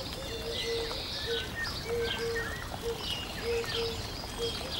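Birds chirping, with a short low note repeated, often twice in a row, about every second.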